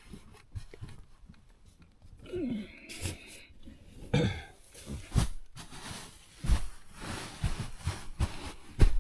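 Belongings being handled and set down inside a small vehicle cabin: scattered knocks and thumps with rustling, and one short whine about two and a half seconds in.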